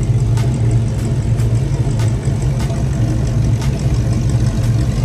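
Classic muscle cars and hot rods rolling slowly past in a cruise line, their engines making a steady, deep idling rumble.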